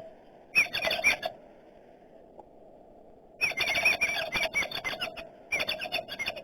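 Birds giving harsh, rapid chattering calls in three bursts, the longest about two seconds, with short pauses between.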